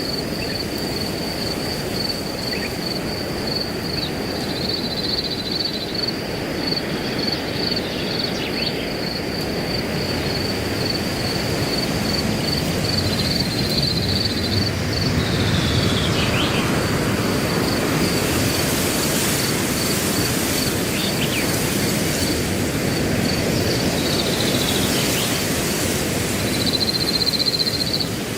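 Wind blowing through grass, swelling in the middle and easing again, under a steady, rapidly pulsing cricket chorus. A few short bird calls drop in pitch now and then.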